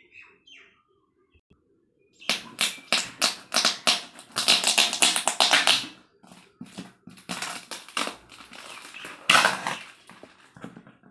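Packaging being torn open by hand: a quick run of ripping and rustling bursts starting about two seconds in, loudest in the middle, easing off near the end.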